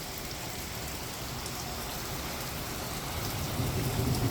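Heavy thunderstorm rain pouring steadily onto the ground and surfaces. A low rumble of thunder starts to build near the end.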